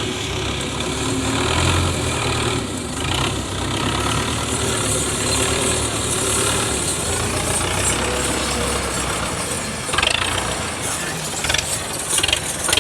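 Tractor engine running steadily, with a couple of brief louder noises near the end.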